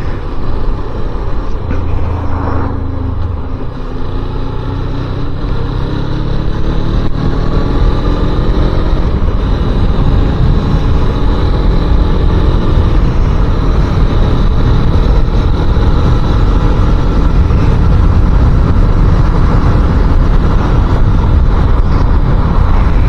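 Motorcycle engine running on the road with heavy wind rumble on the microphone; the engine note climbs slowly over the first several seconds as the bike speeds up from about 25 to 45 mph, then holds steady.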